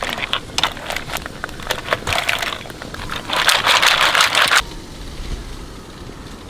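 Mussel shells scraping and clicking in a cooking pot as they are stirred, in two noisy bursts, the second lasting about a second.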